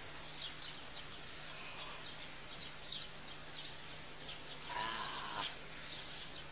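Outdoor garden ambience with small birds chirping: many short, scattered high chirps over a faint steady hum. A brief pitched call or voice sound stands out about five seconds in.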